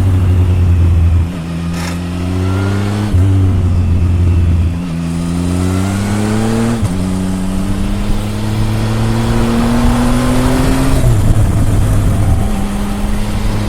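Triumph Tiger 1050's three-cylinder engine heard from the exhaust, revving up under throttle and dropping back several times, with the longest climb lasting about four seconds. It ends in a steadier, lower note.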